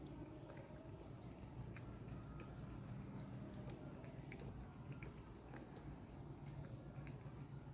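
A cat chewing and eating its food: faint, irregular small clicks over a steady low hum.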